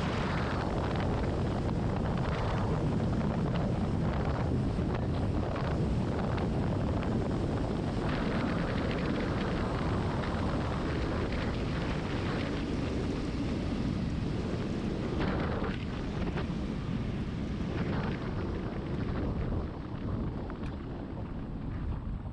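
Wind buffeting the microphone: a loud, gusty rumble that eases off near the end.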